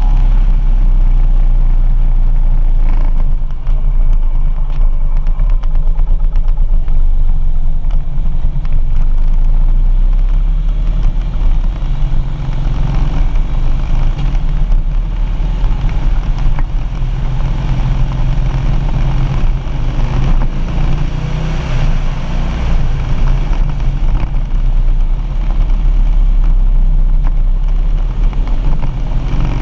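Harley-Davidson Street Glide's V-twin engine running steadily as the motorcycle rides along, heard from a camera behind the windshield.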